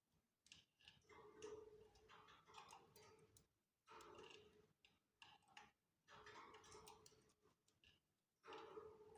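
Faint, irregular clicking and rustling from canaries moving about their cage, coming in bursts about a second long with short pauses between.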